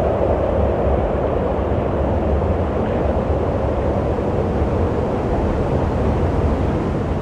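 Steady wind with a deep low rumble and a whooshing band in the middle.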